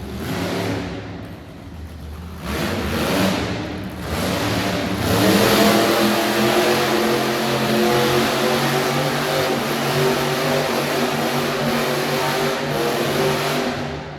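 Truck engine revving hard under load: two short surges, then held at high revs for about nine seconds before dropping off near the end. This is typical of a truck pushing through mud.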